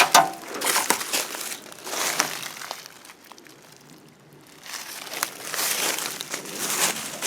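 Footsteps rustling and crunching through forest undergrowth, with a short quieter pause about three seconds in.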